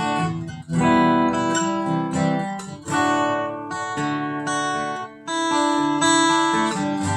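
Acoustic guitar strumming full chords in an instrumental break of a song, each chord struck and left to ring for a couple of seconds before the next.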